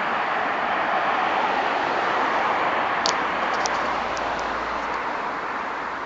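Steady wash of distant road traffic noise, with a few faint clicks about three seconds in.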